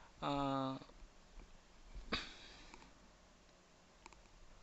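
A man's short, level-pitched hum, then a sniff about two seconds later, with a few faint clicks near the end.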